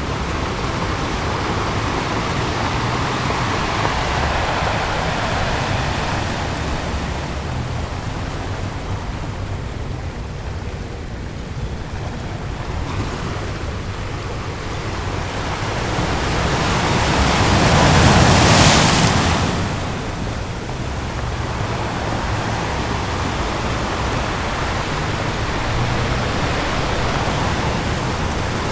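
Ocean surf washing onto a beach in a continuous rush, with one wave breaking loudest about two-thirds of the way through.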